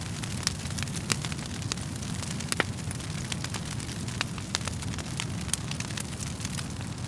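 Wood fire burning in a fireplace: a steady low rumble of flames with irregular sharp crackles and pops of the burning wood, several a second.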